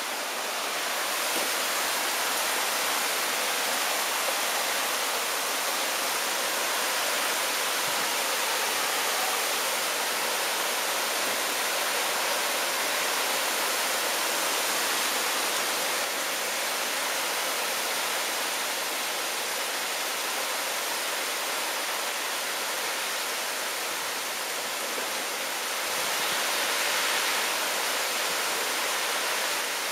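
Heavy wind-driven rain pouring down in a steady, dense hiss, swelling briefly near the end.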